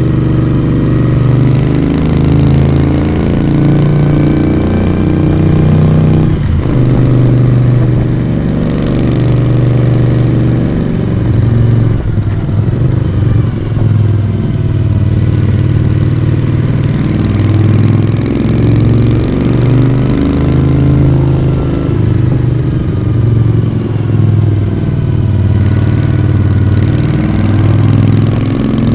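1982 Moto Guzzi V35 air-cooled V-twin motorcycle engine and exhaust under way, its note climbing and falling again and again with throttle and gear changes. A short sharp knock sounds about six and a half seconds in.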